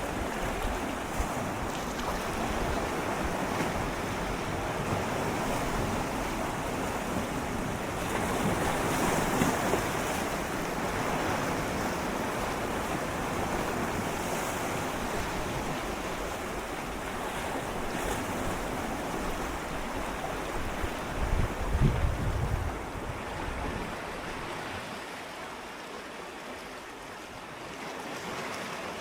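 Gentle sea waves swirling and lapping against shoreline rocks close up, a continuous wash of water that swells about a third of the way in. A brief low rumble comes a little past two-thirds through.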